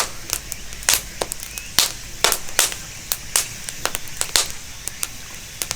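Charcoal in a grill crackling, with sharp irregular pops over a low hiss.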